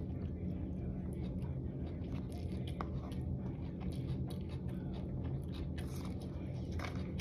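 A person chewing food close to the microphone, with scattered small wet clicks, over a steady low hum.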